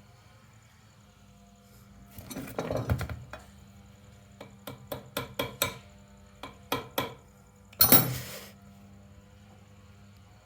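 Small metal clicks and taps: a short cluster about two seconds in, a run of about eight sharp taps between four and seven seconds, and one louder knock near eight seconds, from the steel flywheel key being set and tapped into the crankshaft keyway of a Honda Dio engine.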